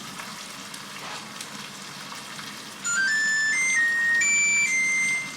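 A kitchen appliance's electronic chime plays a short tune of about seven beeping notes stepping up and down, starting about three seconds in, over a faint frying sizzle.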